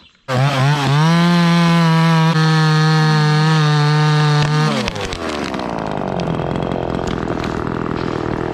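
Two-stroke chainsaw comes in suddenly at full throttle just after the start and holds a steady high pitch for about four and a half seconds. Its pitch then drops as the throttle is let off, and it runs on at a lower, steady speed.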